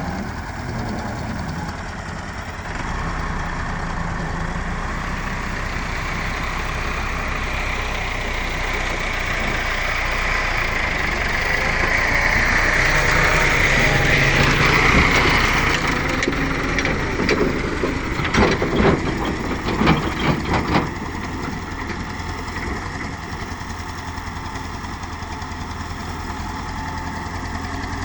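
Tractor engine running steadily, growing louder toward the middle. A quick series of sharp knocks or bangs follows, then it settles back to a steady, lower running sound.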